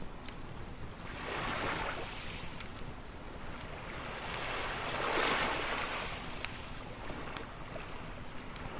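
Ocean waves washing onto a shore, two swells of surf a few seconds apart, with a campfire crackling and popping throughout.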